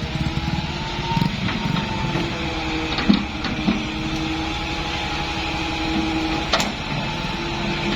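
Excavator's diesel engine running steadily with a steady whine over it, and a few sharp knocks, the loudest about six and a half seconds in.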